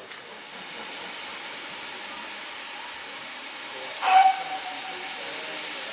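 Steam locomotive hissing steadily with escaping steam, and a short, sharp toot on a steam whistle about four seconds in.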